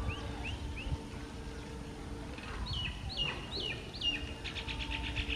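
Birds calling: a run of short rising chirps, then loud swooping whistled notes from about two and a half seconds in and a fast run of repeated notes near the end. Underneath are a low rumble and a faint steady hum.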